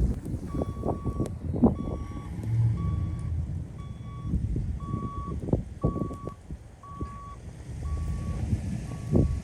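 A vehicle's reversing alarm beeping steadily, about one beep a second, over gusty wind buffeting the microphone.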